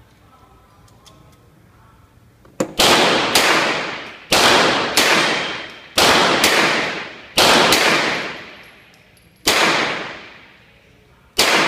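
A .38-calibre revolver firing about ten shots, several in quick pairs about half a second apart, each sharp crack followed by a long echoing tail.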